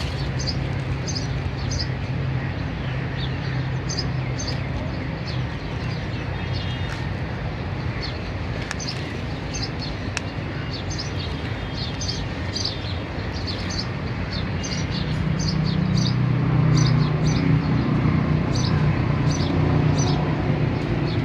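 Small birds chirping in quick, repeated short calls over a steady low rumble, which grows louder in the last several seconds.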